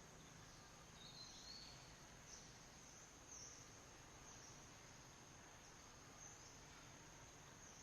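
Faint, steady high-pitched insect drone of crickets or cicadas, with a short chirp about a second in.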